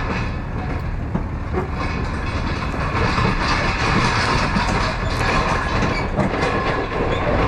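Pickup truck driving along the road towing an empty flatbed trailer: steady road noise with a dense, continuous rattling and clanking from the trailer, a little louder from about three seconds in.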